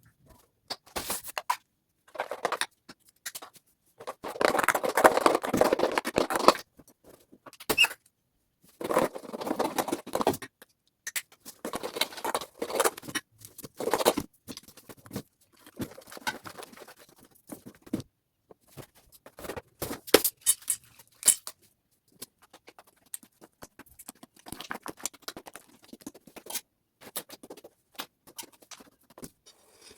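Crunchy slime being squished and pressed, crackling and popping in irregular bursts with short pauses between.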